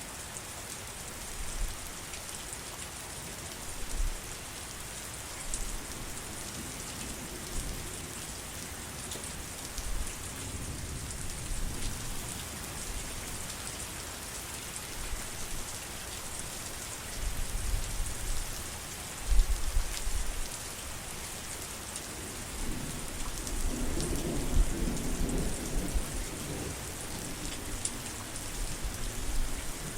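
Steady heavy rain with low rolls of thunder rumbling under it, a stronger peal just before the middle and a longer one in the second half.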